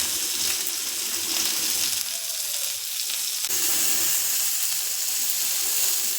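Hot oil sizzling steadily in a pan as seafood shallow-fries.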